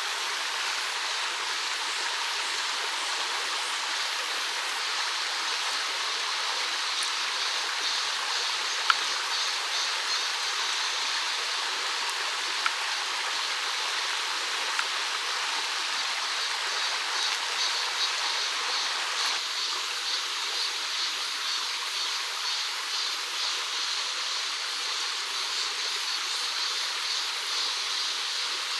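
Mountain stream water running steadily, with three short sharp clicks partway through.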